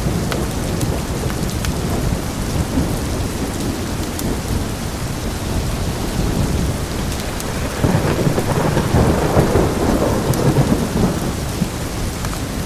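Heavy rain with rolling thunder rumbling low throughout, swelling into a louder peal about eight seconds in that lasts a few seconds. Scattered sharp crackles from a wood fire are heard over it.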